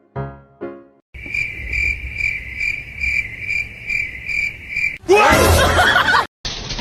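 Cricket chirping: a steady high-pitched pulsing, about two chirps a second, after a few piano notes at the start. About five seconds in, a loud, noisy burst with squeaky sliding pitches cuts in for about a second and stops abruptly.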